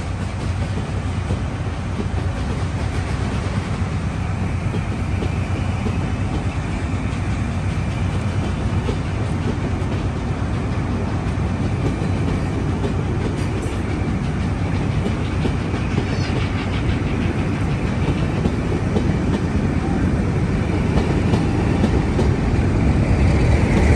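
Railway coaches rolling past, their wheels running steadily on the rails in a continuous rumble that grows louder toward the end.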